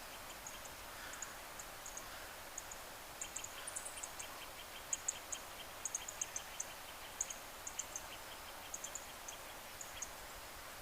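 Scattered short, very high-pitched chirps, with a run of fainter quick ticks from about three to eight seconds in, over a steady outdoor hiss.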